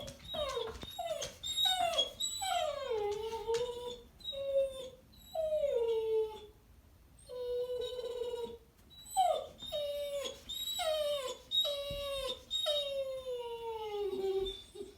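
A dog vocalising in a long run of calls, each sliding down in pitch, one after another with short gaps; the calls stop near the end.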